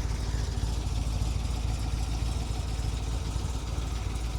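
1963 Corvette's 327 cubic-inch, 340 hp solid-lifter V8 idling steadily.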